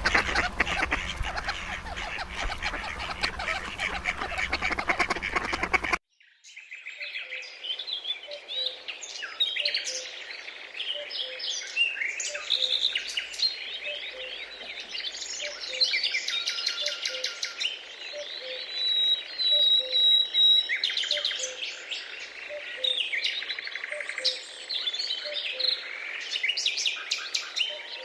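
Birds calling: a dense din of many bird calls cuts off abruptly about six seconds in. A chorus of birds chirping and trilling follows, with a low note repeating about once a second beneath it.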